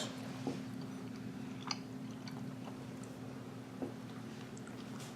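A man chewing a mouthful of rice, faint, with a few soft clicks, over a steady low hum.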